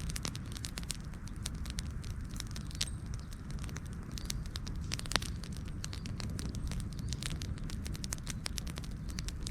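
Wood campfire burning with irregular sharp crackles and pops over a steady low rush of flame, one louder pop about halfway through.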